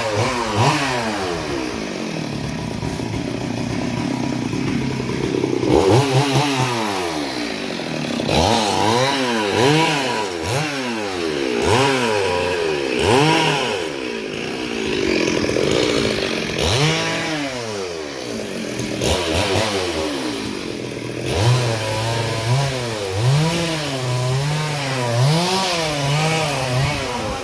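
Chainsaw cutting wood, its engine revving up and falling away again over and over, every second or two.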